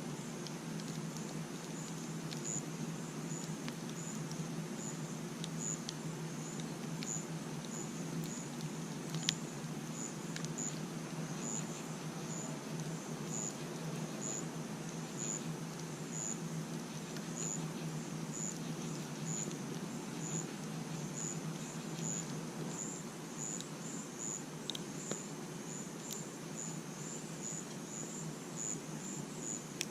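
A cricket chirping steadily, a little over once a second, over a campfire burning with a steady low rumble and scattered sharp crackles and pops.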